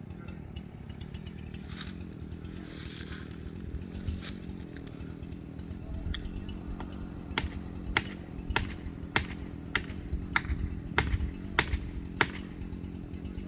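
Chainsaw engine running steadily at low speed, without revving. From about halfway through, sharp ticks come evenly, a little under two a second.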